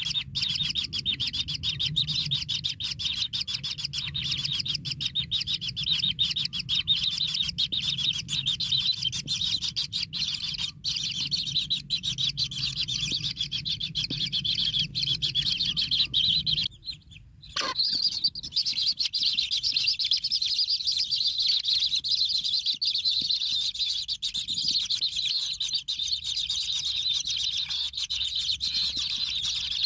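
Kingfisher chicks chirping continuously in the nest hole, a dense high-pitched chatter that cuts out for about a second roughly 17 seconds in and then carries on.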